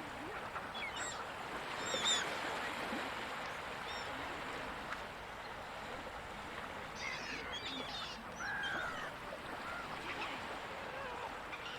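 Gulls calling over a steady wash of ocean surf: scattered short calls, with a cluster about two seconds in and a busier run from about seven to nine seconds in.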